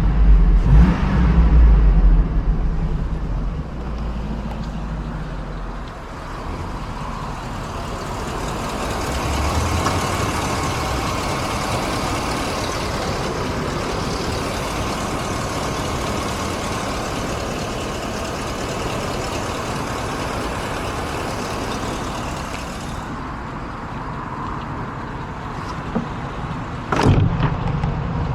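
Hummer H2's 6.0-litre V8 running loud for the first few seconds, then the drive settles into a steady rush of road and wind noise. A brief thump comes near the end.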